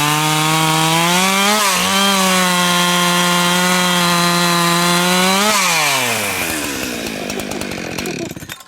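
Two-stroke chainsaw cutting through a log at full throttle in a race cut. Twice the engine pitch sags under load and picks back up. About five and a half seconds in, the revs fall away steadily and the sound dies out near the end.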